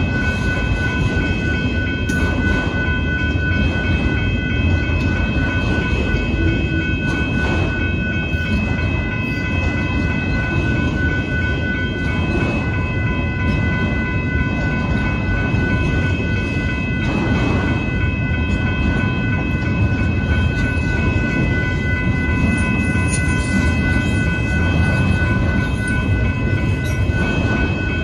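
A freight train of autorack cars rolling steadily past: a continuous rumble and rattle of wheels on rail, with a steady high ringing tone over it.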